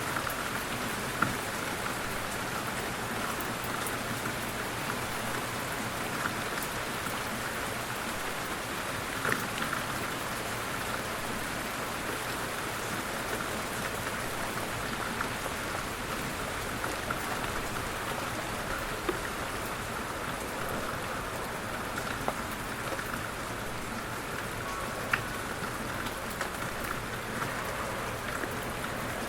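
Light rain falling steadily, an even patter with a few single louder drops ticking sharply now and then.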